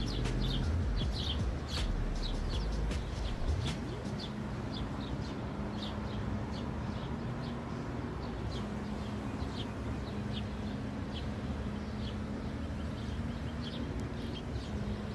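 Small birds chirping, many short high calls scattered throughout, over a steady low rumble and a faint low hum.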